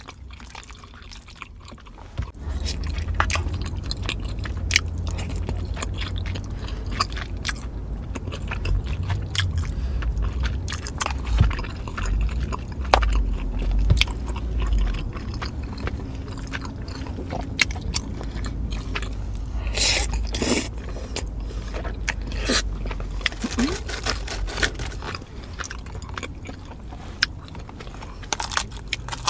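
Close-miked chewing of large mouthfuls of food, with crunching, moist clicks and smacking throughout. A low rumble of the jaw working starts about two seconds in.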